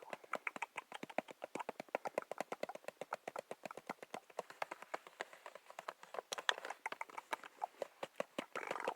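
A quick, slightly uneven run of short, sharp clicks, about seven a second, made close to the microphone as an ASMR trigger.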